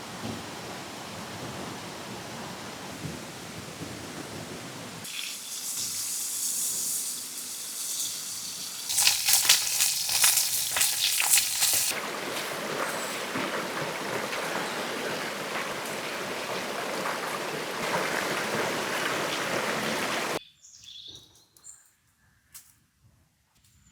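Steak sizzling over an open fire, a steady hiss with dense crackling between about 9 and 12 seconds in. About 20 seconds in the sizzle cuts off, leaving near quiet with a few faint clicks.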